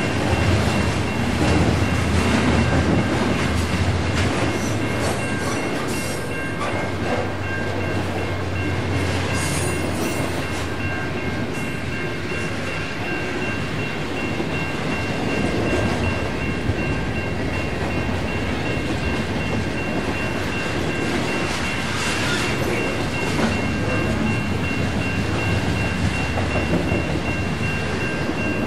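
Freight train rolling past, its wheels rumbling and clattering on the rails, with a steady high ringing tone running over the noise.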